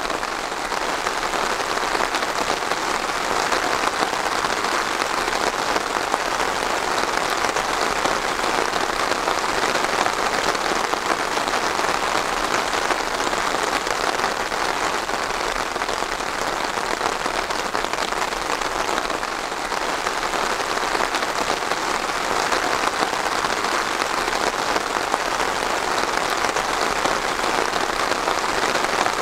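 Steady rain falling, an even, dense patter of drops that neither rises nor eases.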